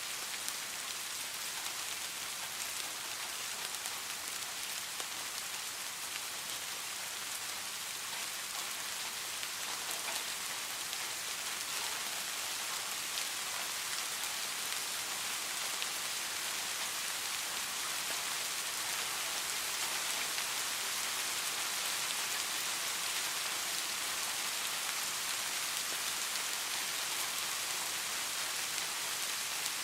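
Steady rain falling: a dense, even hiss with faint scattered drop ticks, growing slightly louder partway through.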